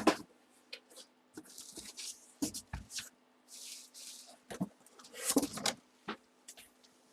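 Plastic packaging being handled by hand: crinkling and rustling in short spells, with scattered clicks and taps.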